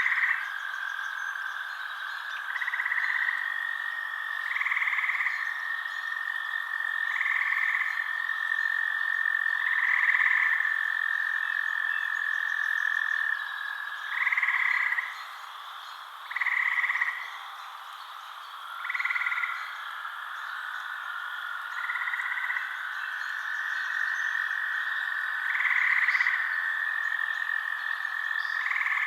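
Frogs calling at night: short calls repeating every two or three seconds over a steady high trill.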